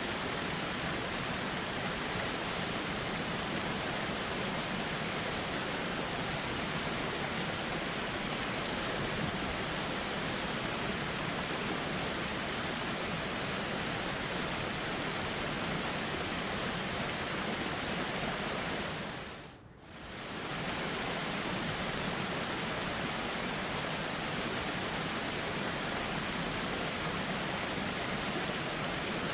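Steady rushing of flowing river water, an even noise with no single events, which fades down briefly and comes back about two-thirds of the way through.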